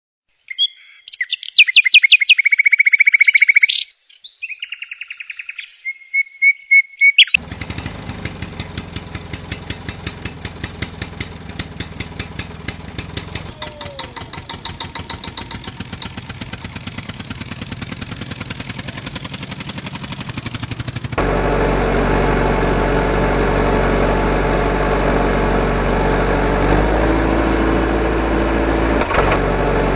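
Chirping, whistle-like calls for the first seven seconds, then a vehicle engine running with a rapid, even putter that becomes louder about 21 seconds in.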